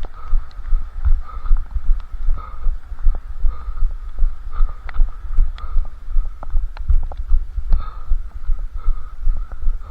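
A runner's footfalls while jogging, heard as regular low thumps about two and a half to three times a second through a head-strapped camera, with scattered light clicks and rattles from gear bouncing along.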